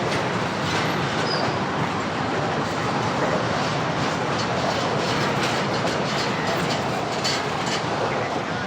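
Freight train rolling past: a steady rumble of wheels on rails with faint, irregular clicking.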